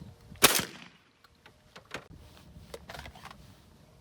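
A single shotgun shot about half a second in, a sharp blast with a short echo, fired at an incoming pigeon. Fainter clicks and knocks follow.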